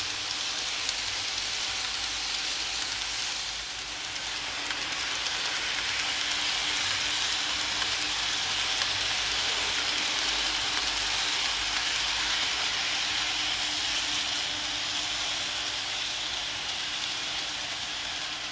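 KATO N-gauge E353 series model train running on layout track: a steady hissing rattle of its small wheels on the rails with a faint steady hum. It dips briefly about four seconds in, then grows louder and holds.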